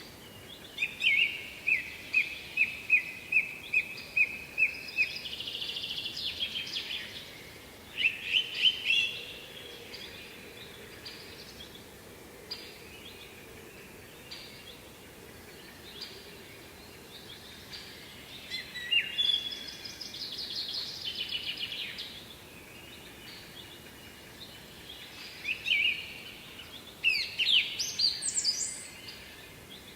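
A songbird singing in several bursts: a run of evenly spaced repeated notes, then quick trills and fast strings of notes, over a faint steady background rush.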